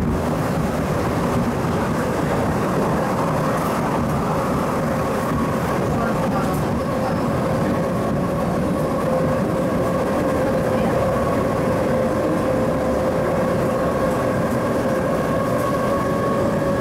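Inside a mid-life-refurbished Metro-Cammell electric multiple unit on the MTR East Rail Line running at a steady speed: constant rumble of the wheels on the track with a steady whine from the traction equipment.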